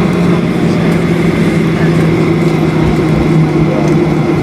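Steady, loud roar of a Boeing 737-800's CFM56 turbofan engines at high power during the takeoff and climb, heard from inside the passenger cabin, with a steady low hum running under the rushing noise.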